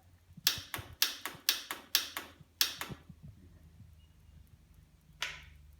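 Old Farmall tractor's starter solenoid clicking about four times a second, a run of about ten sharp clicks, then one more near the end, while the starter motor does not turn. The owner takes this for a stuck starter or bad contacts in the solenoid.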